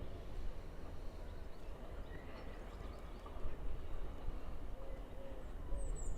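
Outdoor ambience: a steady low rumble of wind buffeting the microphone, with a few faint bird chirps.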